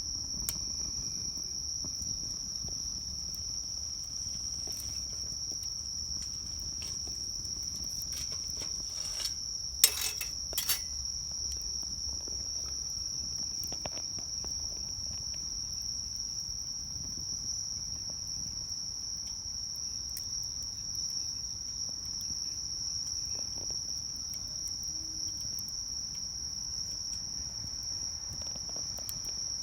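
An insect's continuous high trill, steady in pitch, over the low rumble of a wood fire burning in a Solo Stove Campfire. Scattered crackles and pops come from the fire, the loudest a cluster of sharp pops about ten seconds in.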